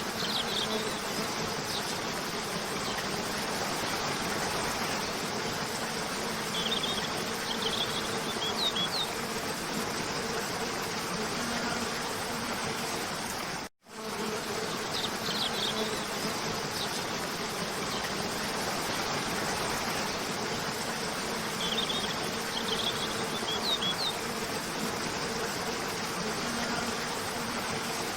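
Steady rush of a cascading waterfall with a faint low hum underneath, and clusters of short, high spring bird chirps now and then. The whole track is a loop: it cuts out for a split second about halfway through and starts over with the same chirps.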